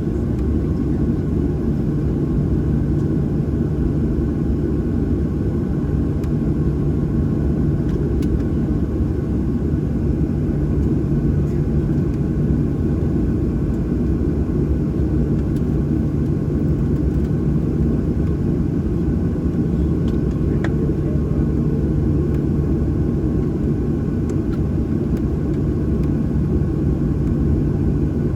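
Steady engine rumble and hum heard inside the cabin of a Boeing 737-800, its CFM56-7B turbofans running at a constant, unchanging power.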